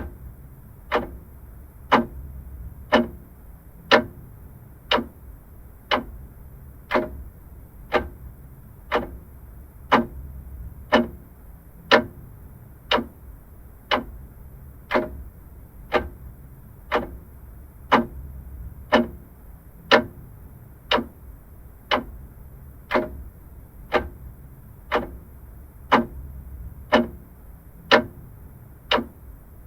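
Vintage clock ticking steadily, one sharp tick a second, over a faint low hum.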